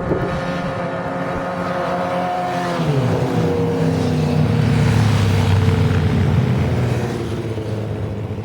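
Sportbike engine running hard at high revs; its pitch drops sharply about three seconds in, then holds lower and begins to fade near the end.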